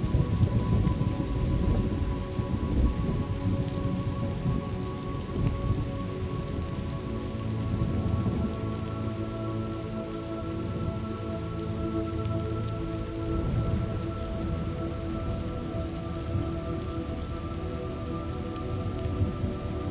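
Steady heavy rain falling, with low rumbling thunder in the first few seconds. Under it sits a soft sustained drone of steady tones, whose pitches shift about a third of the way through.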